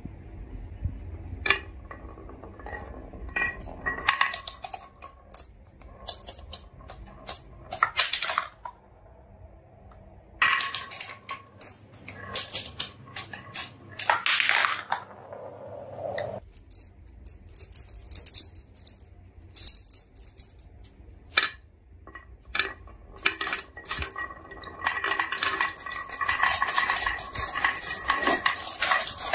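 Marbles rolling and clattering down a wooden marble run track: many sharp clicks and clacks with short ringing tones, in spells, with a denser run of continuous rattling near the end.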